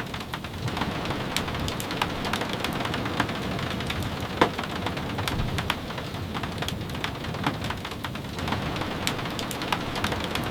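Steady rain, with many sharp ticks and pops scattered through it and one louder pop about four seconds in.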